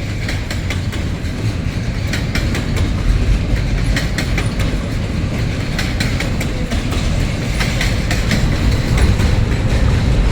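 Freight train cars rolling past: a steady rumble with frequent sharp clicks of the wheels on the rails.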